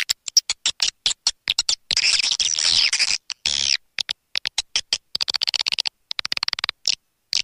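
Swiftlet calling recording, the lure sound played to draw swiftlets into a swiftlet house. Rapid trains of sharp clicks alternate with two longer, high chittering twitters, one about two seconds in and one about five seconds in, with abrupt silent gaps between them.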